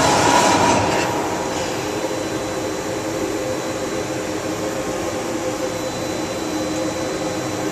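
LVD laser cutting machine running: a louder hiss with a whine eases off about a second in, leaving a steady mechanical hum with a few held tones.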